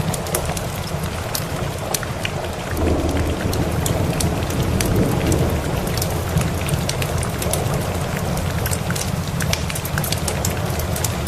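Steady rain with a low rumble of distant thunder that swells about three seconds in and fades a few seconds later, over the sharp crackles of a wood fire.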